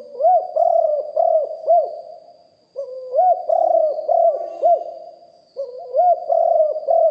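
Spotted dove cooing: three phrases of short, arching coo notes, each phrase about two seconds long. The phrases start near the beginning, about three seconds in and about five and a half seconds in.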